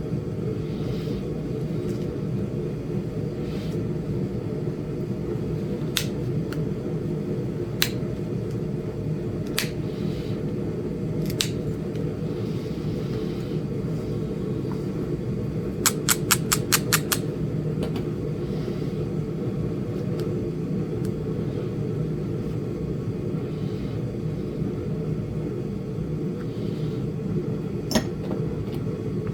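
Flintknapping on a small Flint Ridge chert point: sharp single clicks of stone struck a couple of seconds apart, then a quick run of about eight light taps, over a steady low hum.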